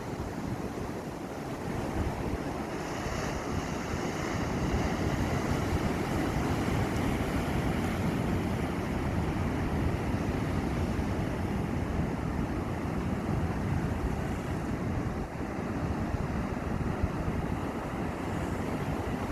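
Sea waves breaking and washing on the shore in a steady, continuous surf, with wind buffeting the microphone.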